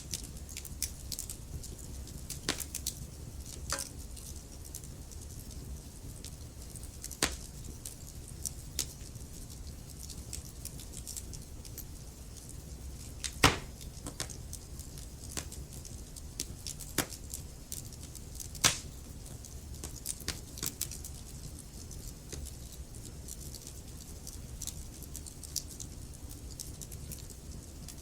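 Wood fire burning: steady low rumble and hiss with irregular crackles and sharp pops from the burning logs, the loudest pop about halfway through.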